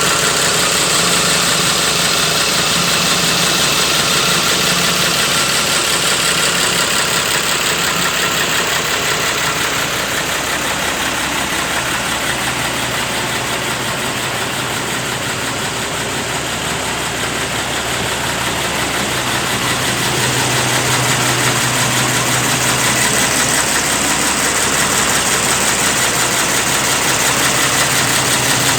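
Iveco 420 hp diesel truck engine, fitted in a CAMC truck, idling steadily.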